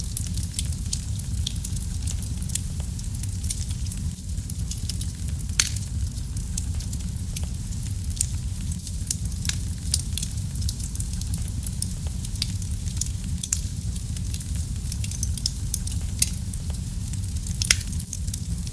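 Wood fire burning in a fireplace: a steady low rumble of the flames with frequent sharp crackles and pops at irregular intervals, a few louder pops standing out.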